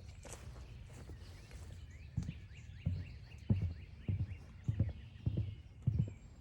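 Footsteps walking on a forest trail, with a regular thump about every half second or so starting about two seconds in. Behind them a bird calls a quick run of short, repeated notes.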